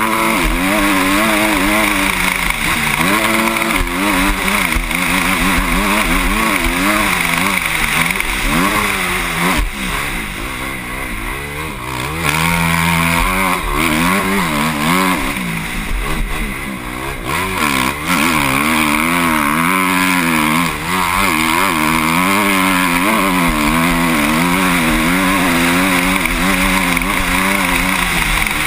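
Motocross bike engine heard from a helmet camera, revving up and down repeatedly as the rider works the throttle round the track. There are brief lulls where the throttle is closed, about ten and sixteen seconds in.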